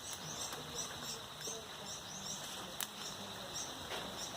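Outdoor garden background with a small animal's high, short chirps repeating about two to three times a second, and a single sharp click a little under three seconds in.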